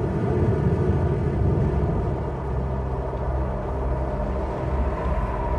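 Wind blowing across open plain, a steady low rumble, with faint sustained tones of a background score coming in near the end.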